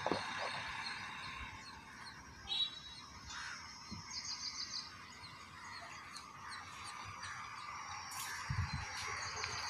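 Outdoor ambience: birds chirping over a steady faint hiss, with a quick run of high chirps about four seconds in. No calf call is heard.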